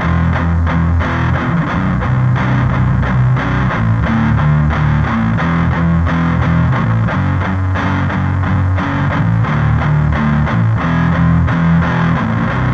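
Rock music with distorted electric guitar and a heavy bass line, playing steadily.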